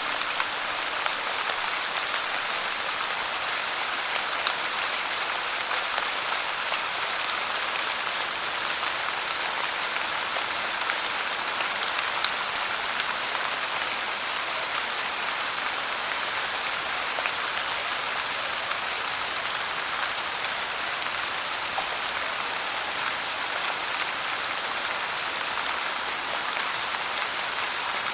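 Steady rain falling, an even hiss of many fine drops with light patters throughout.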